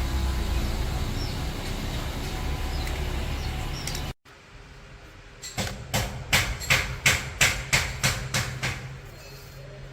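A steady mechanical rumble that cuts off abruptly about four seconds in, followed by a run of about ten sharp knocks, roughly three a second, as of hammer or tool strikes on metal.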